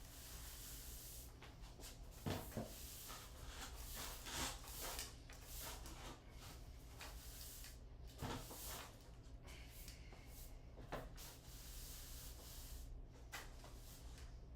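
A handful of light knocks, two close together near the start and the rest spread a few seconds apart, over soft rubbing and scraping as objects are handled and moved.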